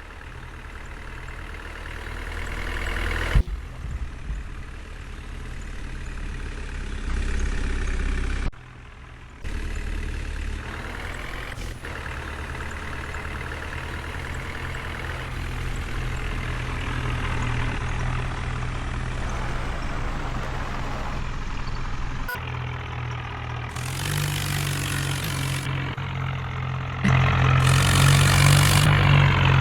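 Heavy diesel engines of farm machinery running, changing abruptly between edited clips. There is one sharp knock about three seconds in, and the engine is louder near the end.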